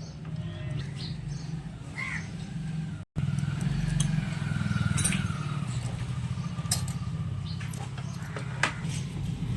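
An engine running steadily with an even low pulse, along with scattered light metallic clicks.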